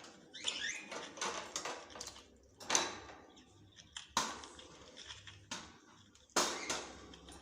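Small birds chirping in short bits, mixed with sharp taps and clatters, the loudest three about a second and a half apart.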